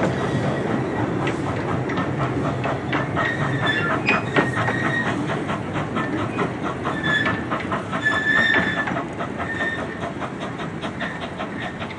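Miniature railway train running on its track: a steady run of wheel clicks over the rail joints, with several short, high wheel squeals in the middle. It gets quieter near the end.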